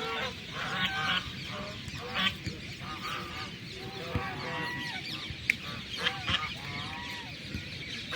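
Several waterfowl calling over one another, with many short calls repeating throughout.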